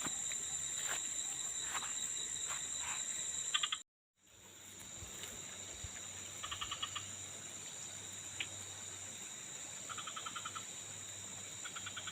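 Insects chirping: a steady, high, shrill drone with short trilled bursts every second or two. The sound cuts out briefly about four seconds in.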